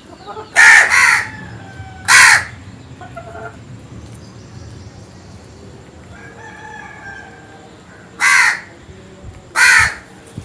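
Crows cawing: five short, harsh caws, a pair about a second in, one at about two seconds and two more near the end, with fainter bird calls in the background.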